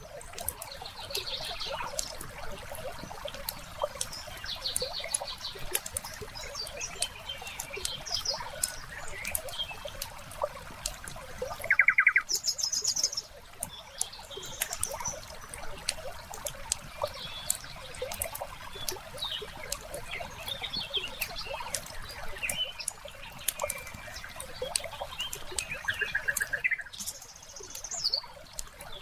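Wood fire crackling and popping in irregular snaps, with several short, high trills that stand out now and then, the loudest about twelve seconds in.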